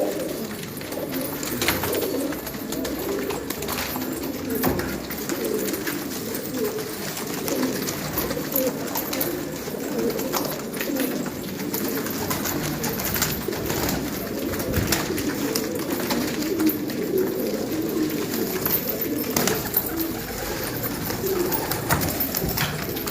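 A flock of domestic pigeons cooing together, a continuous low burbling of many overlapping calls, with scattered sharp clicks.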